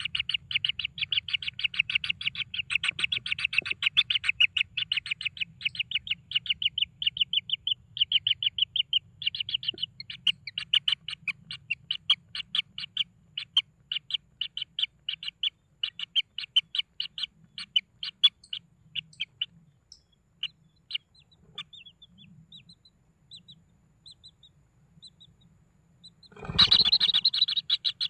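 Kingfisher chicks calling in a fast, continuous run of high chirps that thins out to scattered calls after about twenty seconds. Near the end a loud rushing burst breaks in, and the chirping starts up again louder.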